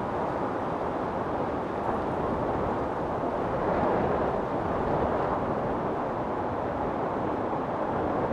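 Strong wind blowing steadily in a storm, a continuous rushing that swells a little about four seconds in.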